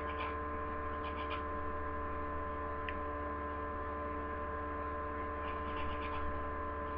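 Steady electrical hum, with faint rapid scratchy strokes of a nail buffer or emery board being rubbed back and forth over a glued fingernail, near the start and again near the end.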